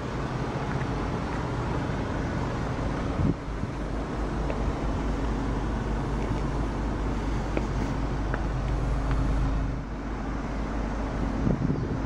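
2012 Volkswagen CC R-Line's 2.0-litre turbocharged four-cylinder idling steadily.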